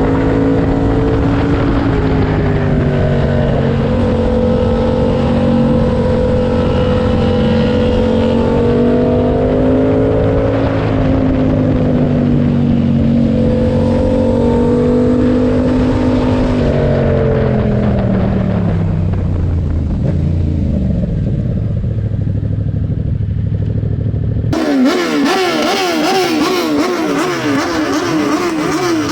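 Parallel-twin motorcycle engine running at steady revs while riding, then its pitch falls as the revs drop. About three-quarters of the way through the sound changes suddenly to a brighter engine sound with a rapidly wavering pitch.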